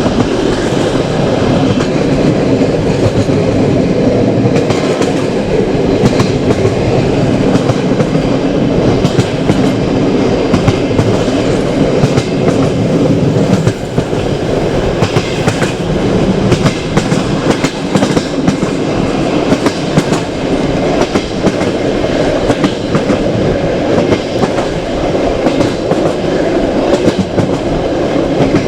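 Passenger railway carriage running at speed: a loud, steady rumble of wheels on track, with frequent irregular clicks and knocks as the wheels pass over rail joints.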